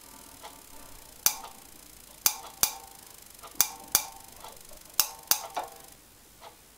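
Sharp metallic clinks of metal tools or parts knocking together, about seven of them spread irregularly, each with a short ring.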